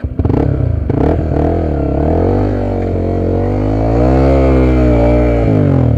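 Honda XR250 Tornado's single-cylinder four-stroke engine pulling under throttle, its pitch rising and falling with the throttle and easing off sharply near the end. A few sharp knocks come in the first second or so.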